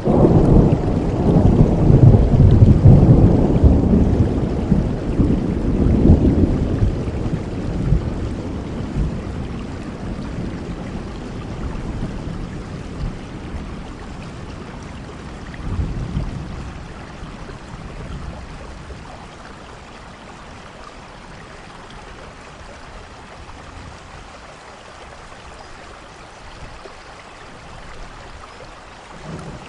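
Thunderstorm: a long roll of thunder that rumbles loudest over the first several seconds and slowly fades, a shorter rumble about halfway through, and steady rain hissing underneath.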